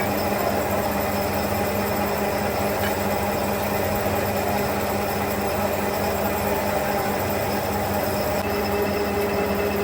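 Factory machinery running steadily: a continuous hum and noise at an even level, with a few steady low tones and no starts or stops.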